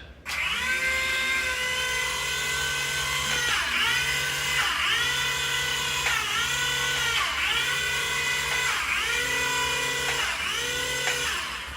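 Mini remote-control helicopter's small electric motor and rotors whining in flight, the pitch dipping and recovering every second or so as the throttle is worked. The whine winds down and stops near the end as it lands.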